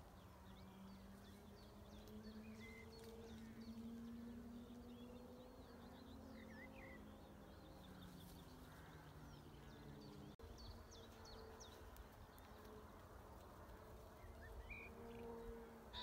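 Faint birdsong: scattered quick chirps and calls from small birds, over a faint low drone that slowly wavers in pitch.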